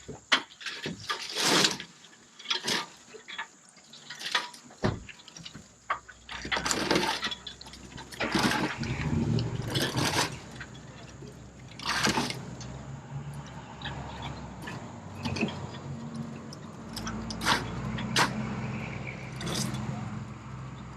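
A motor vehicle engine starts up about five seconds in and runs steadily, with scattered sharp knocks and clatter throughout.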